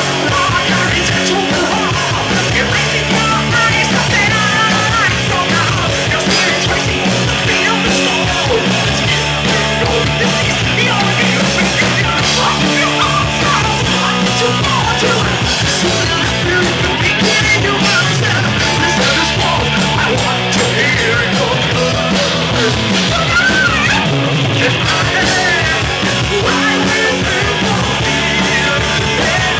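A heavy metal band playing live, loud and dense without a break.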